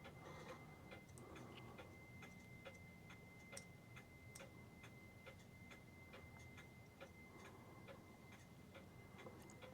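Faint, quick, even ticking of a New England Clock Company clock movement running after cleaning.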